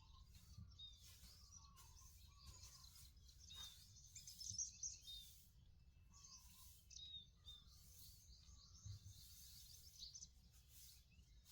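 Faint birds calling: short chirps repeating about every second, mixed with higher trills, over a low background hum.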